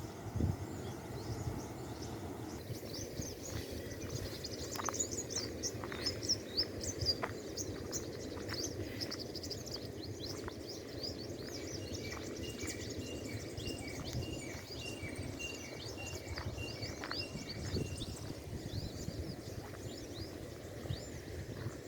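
Several birds chirping and calling over a steady low outdoor rumble, with a run of quick, evenly repeated call notes in the middle.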